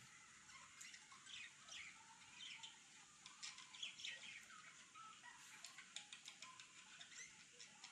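Near silence, with small birds chirping faintly and repeatedly in the background.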